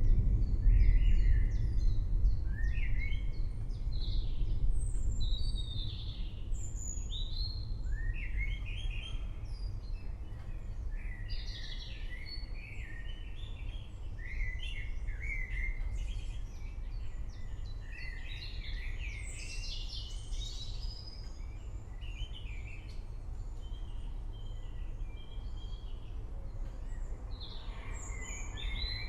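Several songbirds chirping and singing, many short rising and falling calls overlapping, over a low rumble of distant thunder that is loudest in the first few seconds and then dies down.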